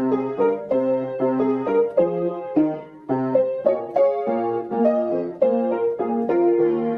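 Background piano music, a run of struck notes and chords in a flowing, steady rhythm.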